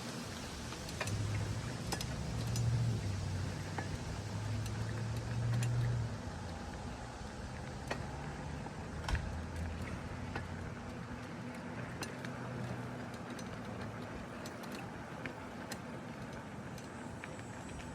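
Bicycle riding along a street: steady tyre and wind noise with scattered light clicks and rattles from the bike. A low hum swells and fades during the first six seconds.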